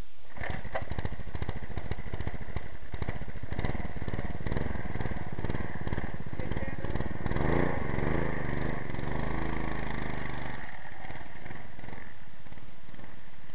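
Harbor Freight 6.5 hp Honda GX200-clone single-cylinder four-stroke engine on a minibike with a custom exhaust, running through a torque converter. It comes in abruptly, revs up about seven seconds in and falls back, and its deep low end fades out around eleven seconds.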